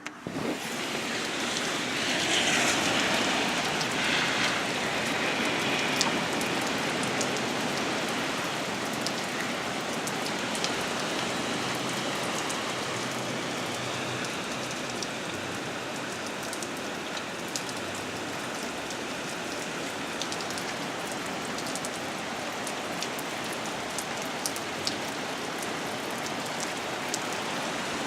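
Heavy rain pouring down, a steady hiss dotted with sharp ticks of drops striking nearby surfaces. It is loudest in the first few seconds, then settles to an even downpour.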